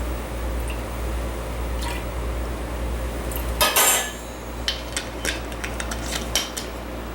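Kitchen utensils and dishes clinking: a short clatter a little over halfway, then a run of light, quick clinks, over a steady low hum.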